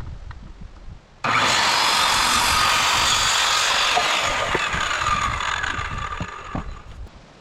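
Electric power saw cutting through a wooden board. It starts suddenly about a second in, runs for about five seconds and then winds down.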